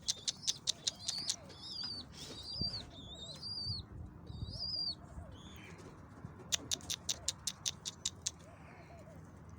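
Domestic pigeons cooing in repeated low notes, mixed with high-pitched chirping and two runs of rapid sharp clicks, one at the start and one a little past halfway, about six a second.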